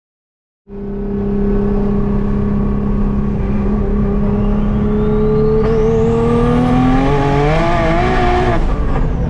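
Turbocharged Nissan 370Z V6 pulling at full throttle, heard from inside the car. The engine note climbs through a gear under a whine that rises steeply in pitch, and it wavers near the top of the gear as the tyres spin. The sound cuts in abruptly about a second in, and the whine stops shortly before the end.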